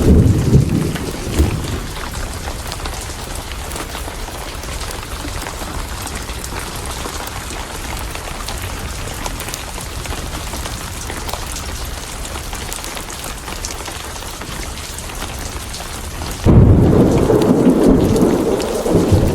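Steady heavy rain with thunder rumbling. A rumble dies away in the first second or so, and a loud one breaks in suddenly near the end.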